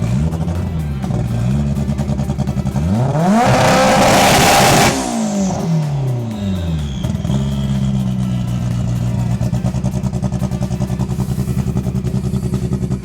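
Honda Civic drag car's engine being revved in repeated blips, with one longer, louder rev about three seconds in, then running more steadily at raised revs.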